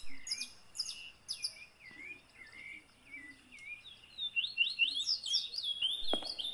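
Birdsong: repeated short, falling chirps, a couple a second at first and busier about four seconds in. A few sharp taps come in near the end.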